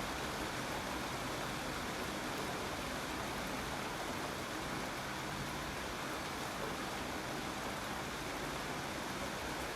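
Steady rainfall, a constant even hiss of rain without separate drops or thunder standing out.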